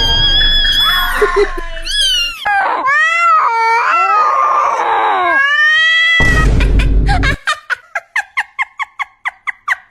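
Crying and wailing cat-meme sound clips: long wavering cries that slide up and down in pitch, then a short noisy burst and a fast run of short clipped cries, about five a second.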